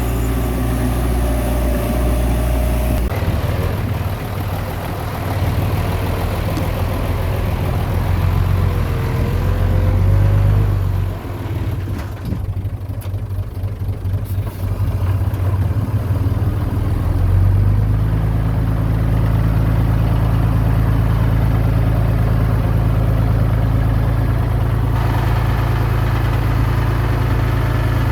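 Heavy diesel engine of earthmoving machinery running, its note shifting a few seconds in and dipping briefly near the middle, then holding steady and stronger through the second half.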